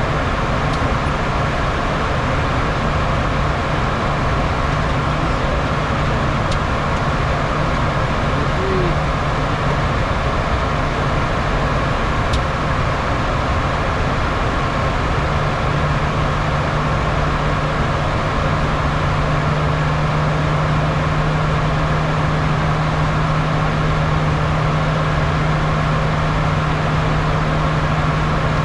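Steady cabin noise of a Bombardier Challenger 350 business jet in flight: turbofan engine noise and airflow rush with a constant low hum, which grows louder about halfway through.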